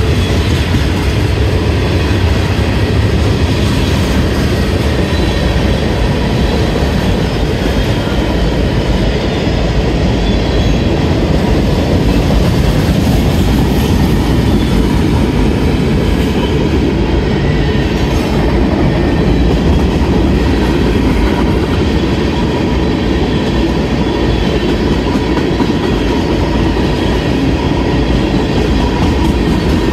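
Freight cars of a CSX mixed manifest train (covered hoppers, steel coil cars and tank cars) rolling past a grade crossing: steel wheels running on the rails in a steady, loud rumble.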